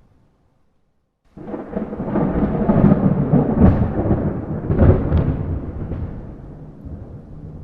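Thunder: after a moment of silence, a deep rolling rumble starts abruptly about a second in, swells with two louder cracks near the middle, then slowly dies away.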